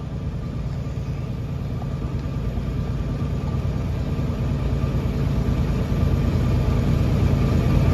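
Semi-truck engine and road noise heard from inside the cab at highway speed: a steady low rumble that grows gradually louder.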